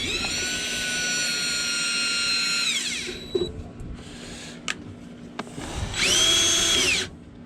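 Power drill/driver whining as it drives the furnace's ground screw: one run of about three seconds that winds down, a few clicks, then a second short burst near the end to snug the screw.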